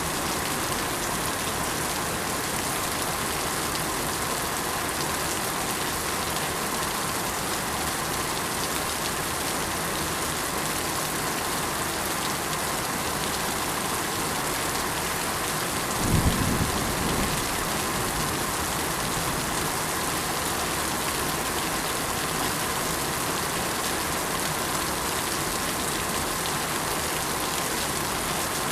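Steady rain falling, an even hiss of drops on surfaces. A little past halfway comes a brief low rumble.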